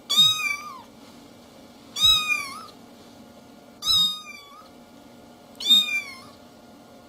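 A domestic cat meowing four times, about two seconds apart. Each meow is short and drops in pitch.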